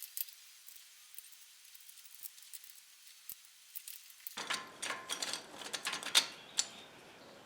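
Light metallic clinks and clicks of small steel parts being handled. They are sparse and faint at first, then come as a quick run of clinks over about two seconds, over a faint hiss that comes in about four seconds in.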